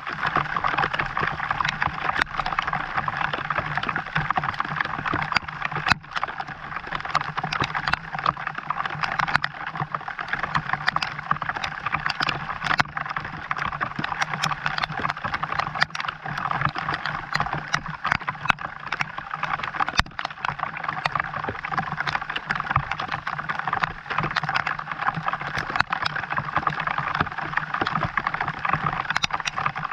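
Steady rain, with many single drops striking sharply close by over a continuous wash, and a low steady hum underneath.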